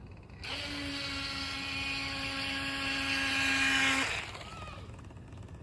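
Small electric motor of an RC boat whirring at one steady pitch for about three and a half seconds, growing slightly louder before cutting off suddenly.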